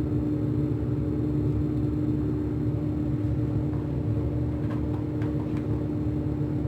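Steady low mechanical hum with one constant tone over a rumble, and a few faint clicks about three-quarters of the way through.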